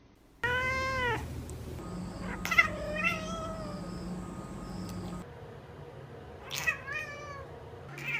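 Domestic cat meowing three times: a long drawn-out meow about half a second in, shorter meows around two and a half seconds, and another near seven seconds.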